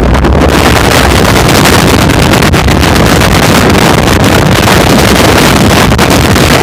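Loud, distorted wind buffeting on the microphone of a moving off-road vehicle, a dense rushing roar with constant crackle that drowns out the engine.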